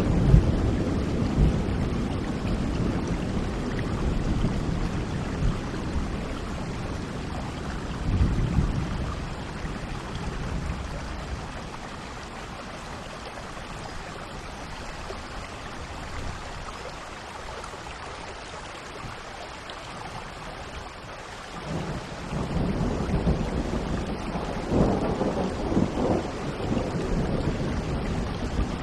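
Steady rain with rolling thunder: a rumble fades away at the start and another comes about eight seconds in. After a quieter lull in the middle, a longer rumbling roll of thunder runs from about twenty-two seconds on.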